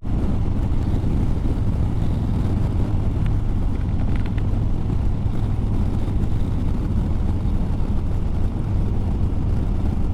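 Motorcycle riding at a steady cruise: a constant low engine drone mixed with road noise.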